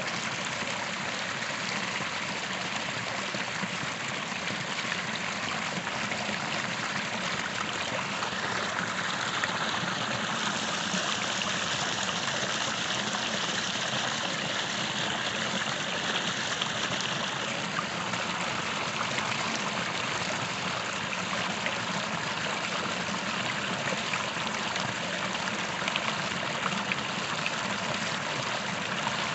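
A creek flowing steadily, a continuous rush and trickle of water. The sound grows a little brighter and hissier for about ten seconds in the middle.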